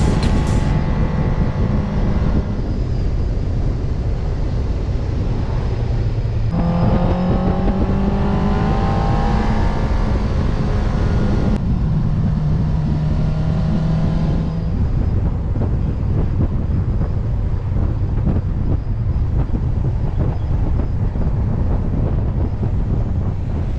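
Motorcycle engine running under a heavy, steady wind rumble, its pitch rising as it revs up through the middle.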